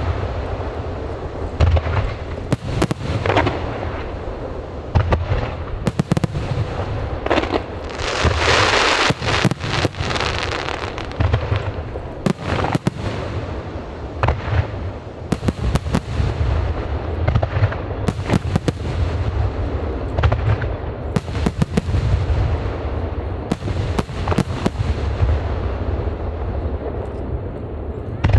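Aerial fireworks going off in a rapid, continuous barrage of sharp bangs over a steady low rumble, with a dense stretch of hiss about eight to ten seconds in.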